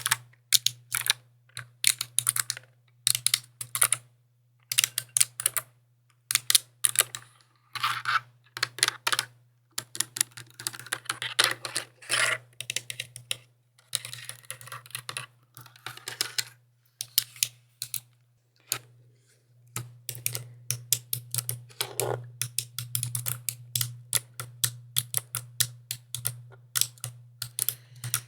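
Mechanical keyboard being typed on, keys clicking in quick bursts with short pauses between them.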